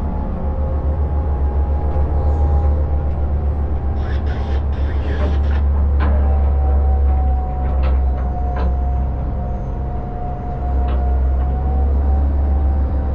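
A boat's engines running under way: a heavy, steady low rumble with a steady high whine over it. A few short knocks come between about four and nine seconds in.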